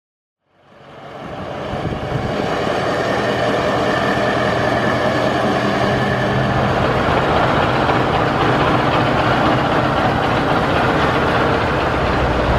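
Scania 142H truck's 14-litre V8 diesel engine running steadily. It fades in about half a second in and then holds at an even level.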